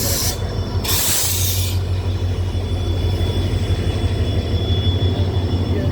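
Passenger train rolling into a station with a steady low rumble. About a second in there is a short, loud burst of hiss.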